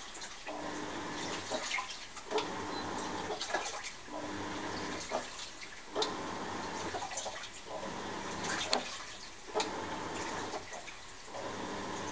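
Washing machine agitating its load in the wash cycle: water sloshing and churning in strokes about two seconds apart as the motor turns the tub one way and then the other, with short pauses between strokes and a few sharp splashes.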